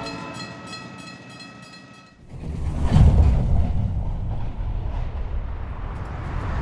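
Train sound effect: a held train-horn chord fades away, then a rumbling noise swells up suddenly about two seconds in and carries on.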